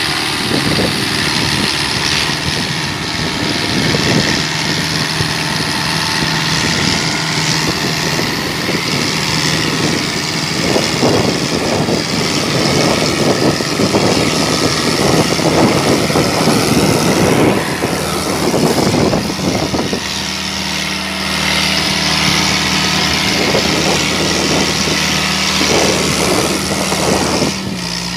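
New Holland tractor's diesel engine running, with a stretch of rapid surges and revving in the middle, then settling to a steadier, higher engine note for the last third.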